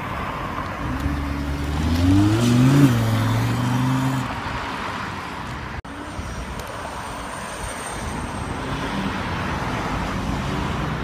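A car engine rises in pitch to a peak about three seconds in, holds briefly and fades out around four seconds. Steady street traffic noise runs under it and continues after a sudden cut near the middle.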